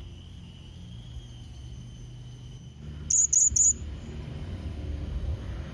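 Blue-crowned hanging parrot (serindit) giving three short, sharp, high-pitched calls in quick succession about three seconds in, the lure call used to draw a rival bird. A steady high insect drone runs underneath.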